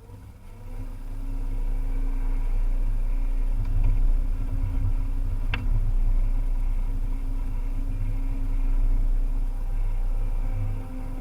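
Volvo EC300E excavator's diesel engine running under steady load, swelling up over the first second or two. There is a single short, sharp clank about halfway through.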